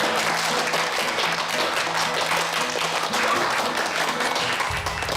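An audience applauding, a dense patter of many hands, with background music under it; the clapping fades out just after the end.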